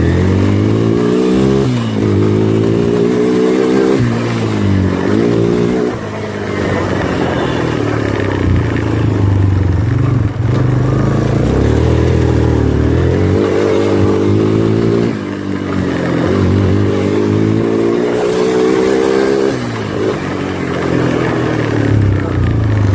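Four-wheeler (ATV) engine being ridden, its pitch climbing and dropping back several times as the throttle is opened and eased off, with a steadier stretch in the middle.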